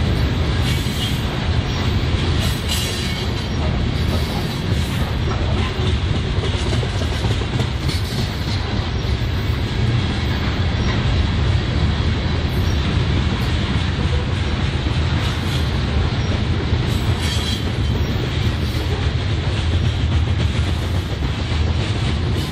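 Train cars rolling past: a steady heavy rumble of steel wheels on the rails, with faint clicking as the wheels cross rail joints.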